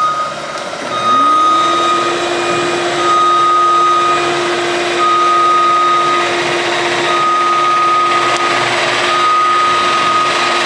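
Motion-warning beeper on powered lifting equipment, sounding a single tone about once every two seconds, over the steady whine of its electric motor, which starts up about a second in.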